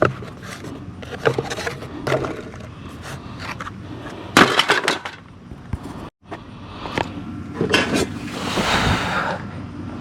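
Repair work on a car's fan assembly: hand tools and parts clicking, knocking and rattling. There is a louder clattering cluster about halfway through and a longer scraping noise near the end, over a steady low hum.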